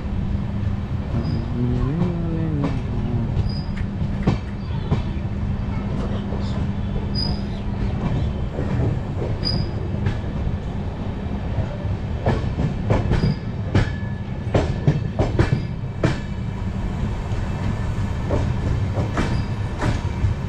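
Passenger train running on the rails, heard from a carriage: a steady low rumble of the wheels with the clatter of wheels over rail joints and points, the clicks coming thickest past the middle. Short high wheel squeaks come now and then, and a brief wavering tone about two seconds in.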